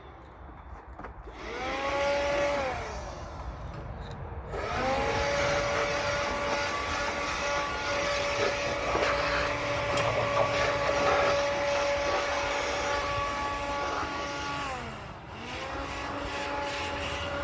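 Electric saw motor cutting firewood. It spins up with a rising whine, runs steadily at speed and winds down: once briefly, then for about ten seconds, then again near the end.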